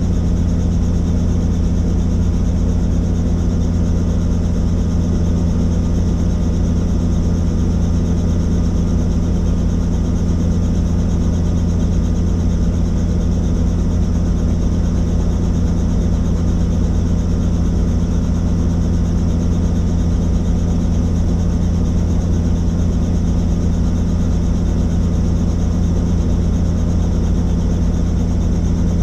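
Helicopter engine and rotor running steadily: a loud, unchanging low drone with a steady hum.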